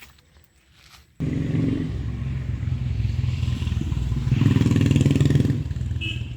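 A motor vehicle engine running steadily with a low hum. It cuts in suddenly about a second in, grows louder past the middle and stops abruptly near the end.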